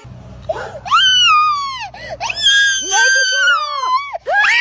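A child screaming in two long, high-pitched wails, the first about a second in and the second from about two and a half seconds in, each falling in pitch as it ends.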